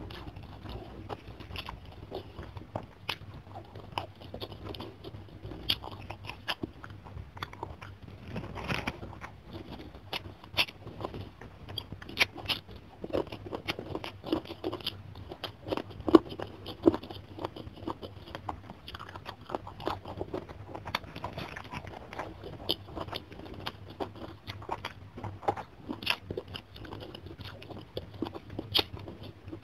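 Close-miked eating: a person chewing and crunching a mouthful of rice, fish and raw vegetables eaten by hand, with irregular sharp crunches and wet mouth clicks.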